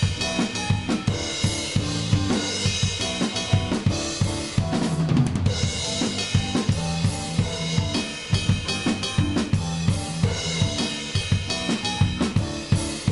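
Instrumental rock band playing live: a drum kit with snare, bass drum and cymbals drives steadily over sustained low bass notes. A quick, dense run of drum hits comes about five seconds in.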